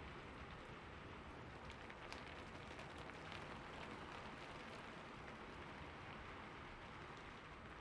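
Steady rainfall, a soft even hiss with faint scattered drop ticks.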